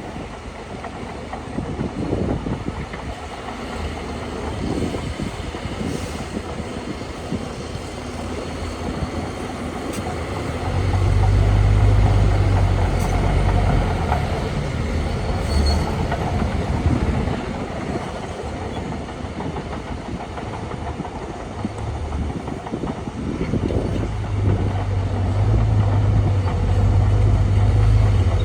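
Heavy diesel earthmoving machinery working, a continuous engine rumble with mechanical clatter. The deep low rumble swells louder about a third of the way in and again near the end, as the engine takes load.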